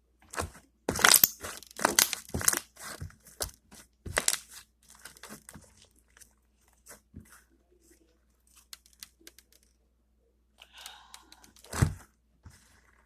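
Slime with beads mixed in being squeezed and poked by hand, giving a rapid run of wet pops and crunchy crackles. The crackles come thick for the first few seconds, thin out to scattered pops, and one loud pop sounds near the end.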